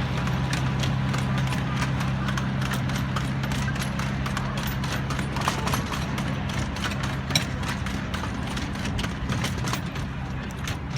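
Miniature park train riding along its track: a steady low hum with many quick clicks of the wheels going over the rails.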